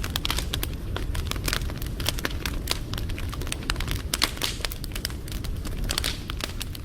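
Wood fire crackling, with frequent irregular pops and snaps over the low rumble of the flames.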